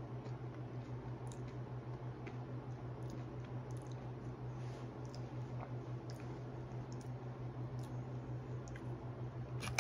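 A person quietly chewing a piece of milk chocolate bar with wafer bits in it, with faint scattered mouth clicks, over a steady low hum.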